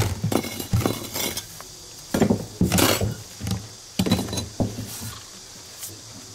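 Hard objects clinking and knocking together, about a dozen irregular short strikes, some with a brief high ring.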